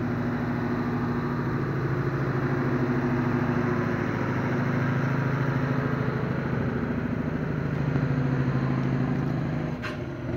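Scania V8 truck engine running steadily at a constant speed, dropping away just before the end with a click.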